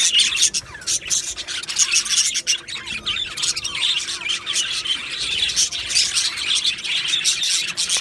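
A flock of budgerigars chirping and warbling together, a dense, continuous chatter of many overlapping short calls.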